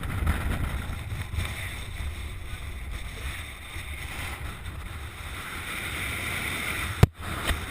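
Steady, rumbling noise like wind buffeting the microphone, with a sharp click about seven seconds in.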